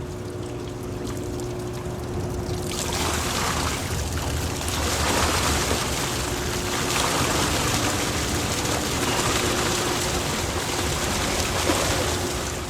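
Rushing water, which grows louder and fuller about three seconds in, over a faint steady mechanical hum.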